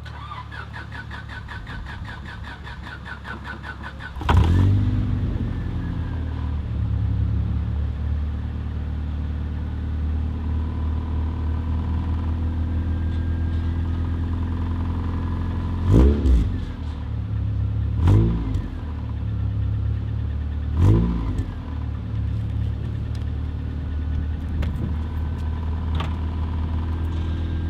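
The starter cranks a Honda Civic EM1's B16A2 four-cylinder engine on a jump start for about four seconds, then the engine catches and idles. Three short throttle blips come later on.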